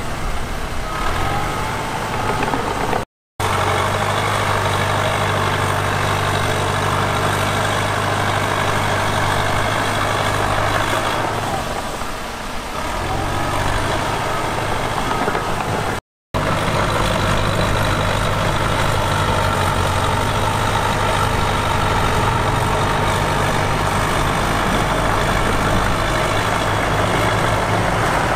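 Heavy diesel engine of earthmoving machinery running steadily, its note weakening briefly about twelve seconds in. The sound cuts out completely for an instant twice, a third of the way through and again past the middle.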